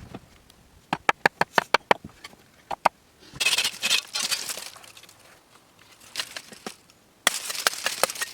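A quick run of about eight sharp knocks, then bursts of scraping and rustling, as from hands working with hard materials.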